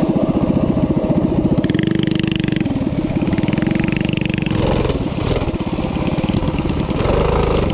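Small minibike engine running under throttle, a rapid, even firing beat that rises and falls a little as the throttle changes.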